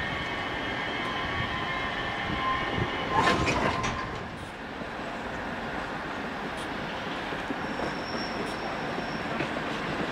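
ÖBB passenger coaches rolling slowly through the station. Their wheels squeal thinly and they clatter over rail joints in a quick cluster of clacks about three seconds in, then settle into a steady rumble with a faint high squeal near the end.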